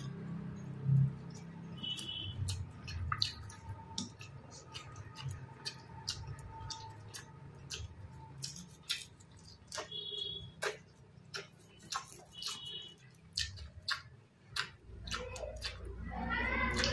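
Close-miked eating sounds: a person chewing a mouthful of rice and curry, with irregular sharp, wet mouth clicks and smacks. Near the end a voice-like sound rises in the background.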